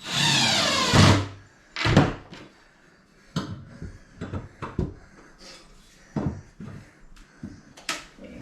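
Subfloor panel work: a loud noisy burst lasting about a second, then a heavy thump about two seconds in and a scatter of lighter knocks and taps on wood.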